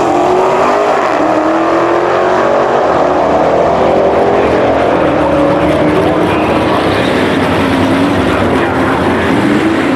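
Drag-racing V8 engines at full throttle, one of them a 440 cubic-inch Chrysler V8, running loud with the pitch climbing, dropping about a second in at a shift, then climbing again.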